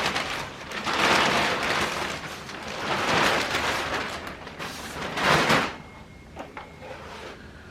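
Scraping and rustling of the plastic cover of a split-type air conditioner's indoor unit being worked off, in three noisy swells, then a few small clicks.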